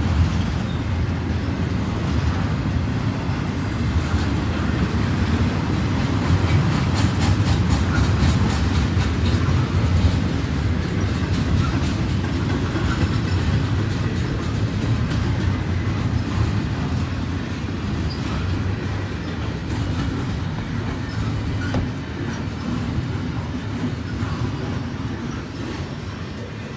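Double-stack intermodal freight train rolling past at a crossing: the steady rumble of its container well cars' wheels on the rail, with some clicking in the middle, easing off gradually toward the end.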